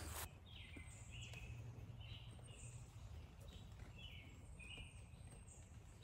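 Faint birdsong: a small bird repeating short chirps, about one or two a second, over a steady low hum of background noise.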